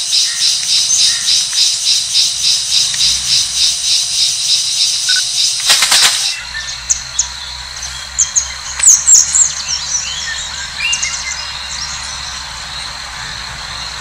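A high-pitched call pulsing evenly about three times a second stops abruptly about six seconds in. Then come short, high bird chirps and calls over a low steady rumble.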